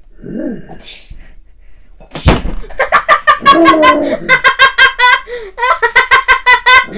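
A sharp smack about two seconds in, then high-pitched, quick, rhythmic giggling from a child that runs on to the end.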